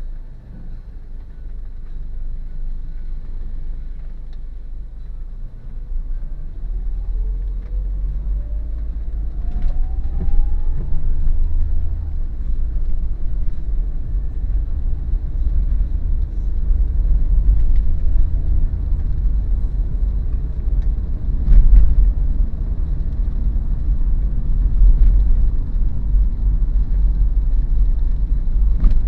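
Daihatsu Terios running on the road: a steady low engine and road-noise rumble that grows louder about a quarter of the way in as the car picks up speed, with a faint rising whine during the acceleration. A few light knocks from the road or cabin stand out, the clearest about two-thirds of the way through.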